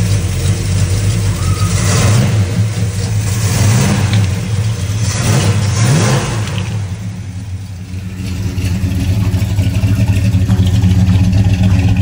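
Classic Ford big-block V8 idling low while it is run hot for a cooling-system flush. A few loud bursts of hiss come in the middle. About two-thirds of the way through, the engine note changes as the idle is raised from about 450 RPM to keep the water pump moving.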